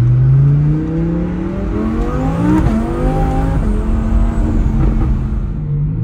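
Twin-turbo Audi R8 V10 accelerating, heard from inside the cabin. The engine note climbs, drops at quick upshifts about two and a half and three and a half seconds in, then holds steadier as the car keeps pulling.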